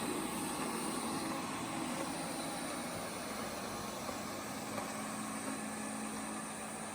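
Okami robot vacuum cleaner running, giving a steady whirring hum with no pauses.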